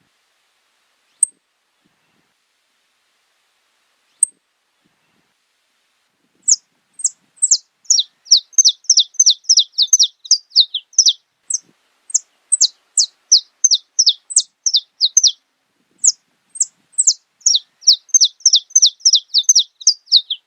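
Saffron finch (canário-da-terra) singing. Two lone high chips come first. From about six seconds in there is a long, fast run of sharp notes, each falling steeply in pitch, about four a second, broken by two short pauses.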